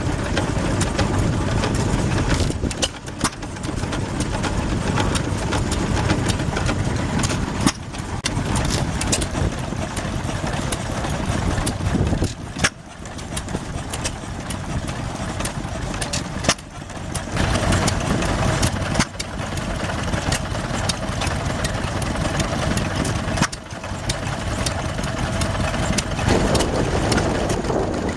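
Stationary engines running, the sound changing abruptly every few seconds, with scattered sharp clicks.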